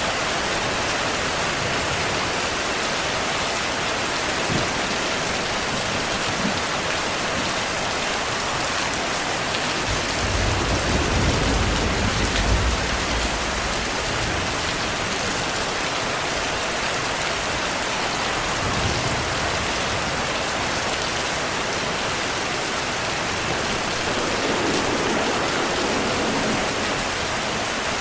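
Steady rainfall. A low rumble of thunder comes about ten seconds in and lasts a few seconds, and fainter rumbles follow later.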